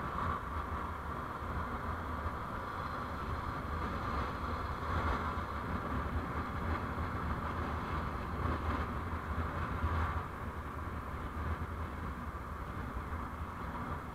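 Steady driving noise of a vehicle on the road: low engine and tyre rumble under a band of wind and road hiss, swelling slightly a few times.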